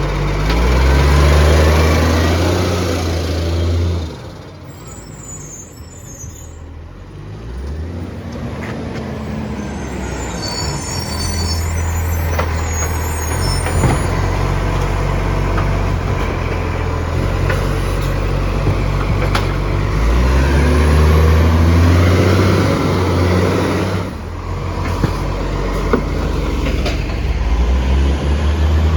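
Garbage truck's diesel engine running and revving up hard for a few seconds at the start and again about twenty seconds in, dropping back to a lower run in between.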